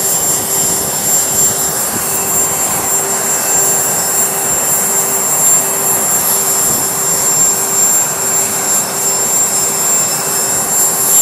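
Jet engines of Air Force One running steadily on the ground, a loud, even rush with a thin high-pitched whine over it.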